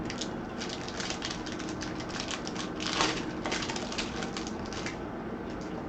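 Trading cards being handled: a quick run of papery flicks and rustles as cards are slid and flipped, loudest about three seconds in.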